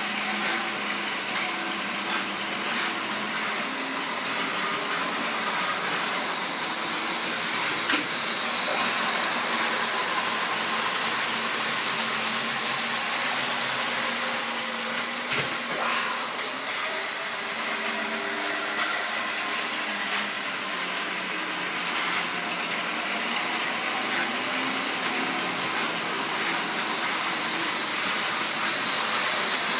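Model railway train running on the track: a steady whirring hiss from the locomotive's motor and the wheels on the rails, with a sharp click about eight seconds in and another about halfway through.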